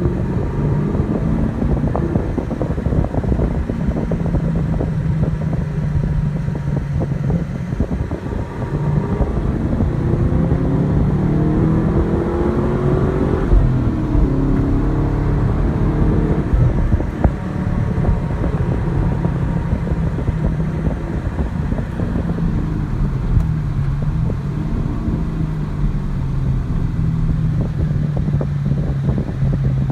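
Chevrolet Camaro SS's 6.2 L LS3 V8 heard on board while driving: running at a steady cruise, then revving up through the gears of its manual gearbox, with a sharp drop in revs at a shift about halfway through, before easing back to a steady cruise.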